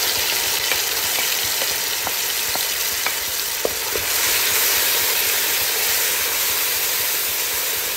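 Hot oil sizzling steadily in a wok as tomato paste is stirred into golden fried onions with a wooden spatula, with small pops and spatula scrapes. The sizzle grows a little louder about halfway through.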